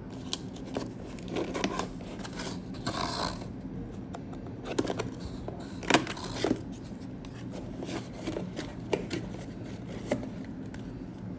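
Hands handling computer parts: scattered light clicks and taps, with a short rustle about three seconds in, over a faint steady hum.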